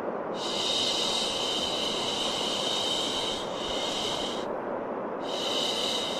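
Long, repeated 'shhh' shushing over a steady white-noise bed: each hissing shush lasts about four seconds, drops out for under a second, then starts again, while the lower rushing noise runs on unbroken.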